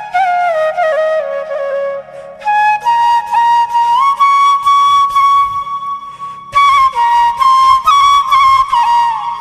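Background music: a flute playing a slow melody with sliding notes and one long held note in the middle, over a low steady drone.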